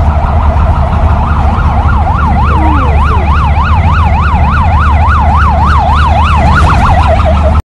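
Electronic siren in a fast yelp, its pitch sweeping up and down about three times a second, over a loud low rumble. It cuts off abruptly near the end.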